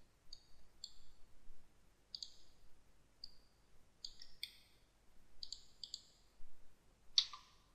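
Faint computer mouse clicks, short and irregularly spaced, a dozen or so.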